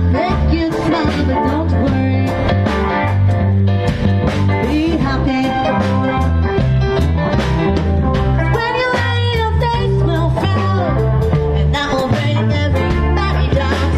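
A band playing upbeat rock-and-blues music, with electric guitar, a walking bass line and a steady drum beat.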